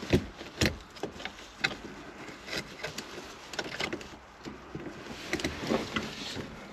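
Irregular clicks and knocks of a transmission shifter cable and its fittings being handled and pushed into place by hand, with two heavier thumps near the start.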